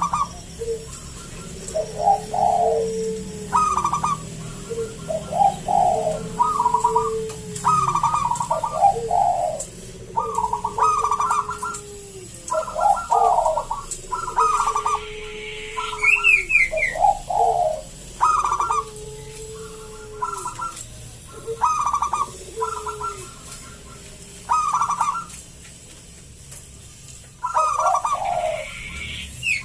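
Zebra dove (perkutut) singing its cooing song, phrase after phrase every second or two, in a full, deep voice. A few brief higher chirps from another small bird come in about halfway through and again at the end.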